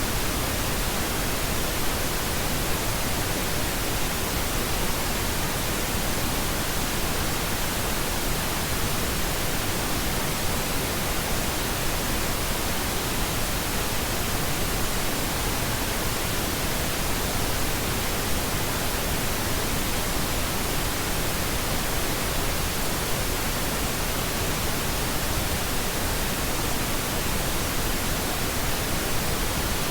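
Steady, unchanging pink noise: an even hiss spread across the whole range, with no events or changes.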